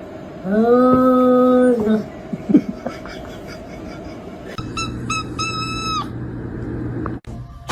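A cat's long, loud meow about half a second in, lasting about a second and a half, rising at the start and then held. A few seconds later come three short, thin, high-pitched squeaks in quick succession over a low steady hum.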